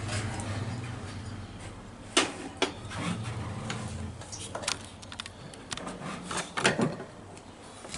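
A few scattered knocks and clicks of things being handled, the loudest about two seconds in and near the seven-second mark, over a low hum that fades out in the first few seconds.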